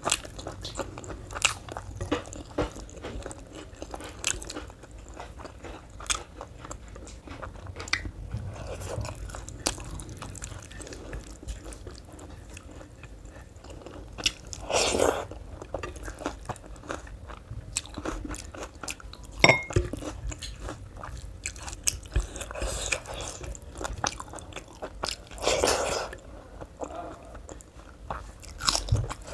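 Close-miked chewing and crunching of food, with frequent small mouth clicks, a few louder wet bursts, and one sharp click about two-thirds of the way through.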